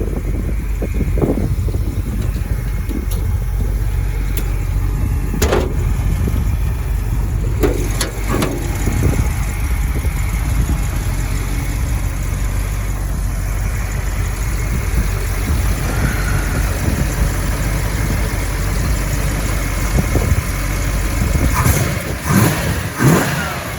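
1970 Plymouth 'Cuda's 340 small-block V8 running steadily at idle, a constant low rumble, warming up after a cold start. A few short knocks break in, with a busier stretch just before the end.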